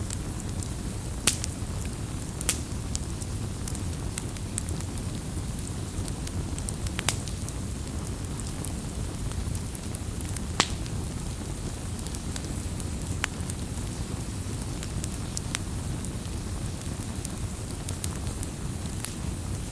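Firewood burning with a steady low rumble, broken by sharp, irregular crackles and pops from the logs, the loudest about a second, two and a half seconds and ten and a half seconds in.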